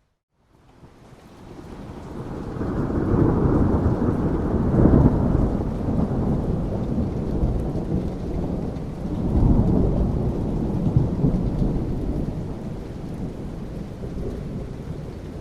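Rolling thunder over steady rain. After a brief silent gap at the start, a deep rumble builds over the first few seconds, peaks around five seconds in, swells again near ten seconds and then slowly fades under the rain.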